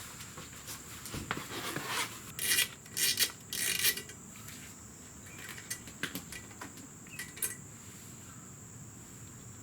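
Wrench working a bolt loose on a motorcycle's footrest mounting plate: metal rasping and clinking, with a few short louder bursts a couple of seconds in.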